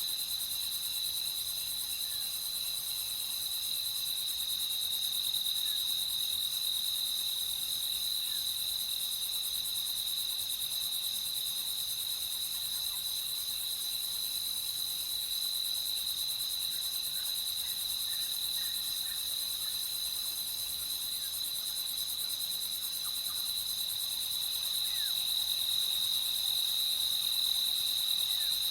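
Crickets chirping in a steady chorus, a continuous high trill, with a few faint short chirps from other animals now and then.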